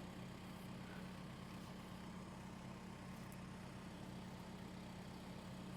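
A vehicle engine idling steadily and faintly, a low even hum.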